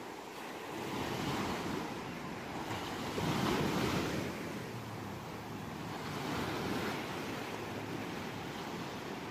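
Ocean surf: waves washing in and breaking in slow surges, the biggest about three and a half seconds in, with smaller swells near the start and around six and a half seconds.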